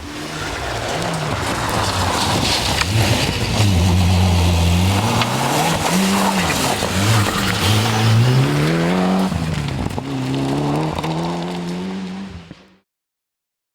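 Rally car engine at full throttle, its pitch climbing and dropping repeatedly through gear changes over heavy tyre and road noise. The sound cuts off abruptly near the end.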